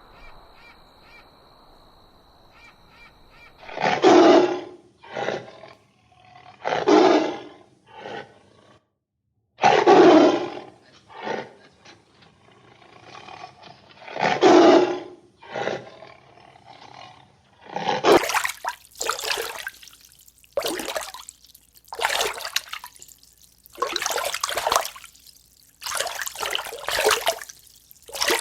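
A big cat roaring: a series of loud, deep roars about every three seconds, with shorter, weaker grunts between them. About eighteen seconds in it gives way to a different sound, a run of short, hissing bursts.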